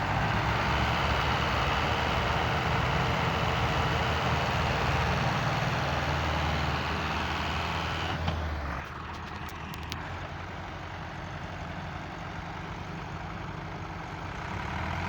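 Heavy tractor engine running steadily, its level dropping off about nine seconds in, with a few faint clicks just after the drop.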